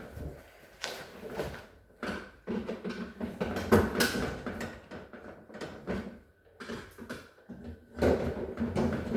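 Irregular knocks, clunks and rattles of refrigerator parts being handled and moved during a repair, the loudest knock near the middle and another cluster near the end.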